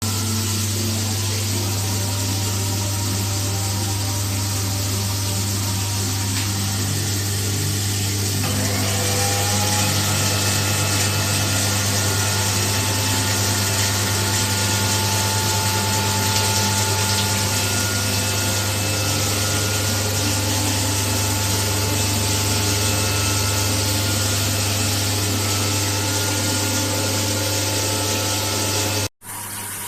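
Alpha IM9EP water heater's built-in AC booster pump running with a steady low hum, with water from the rain shower hissing over it. About eight seconds in the sound brightens and a few steady whining tones come in, and it cuts out abruptly shortly before the end.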